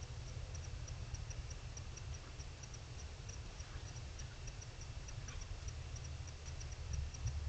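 Night insect ticking steadily, short high-pitched clicks about three a second, over a low rumble.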